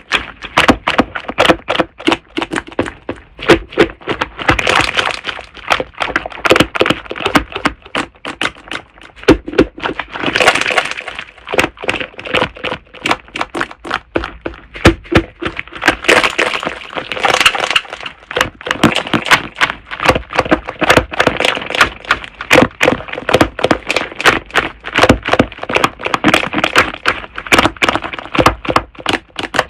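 Slime being squeezed and pressed by hand, making rapid crackling, popping clicks, several a second with a few louder squishy patches.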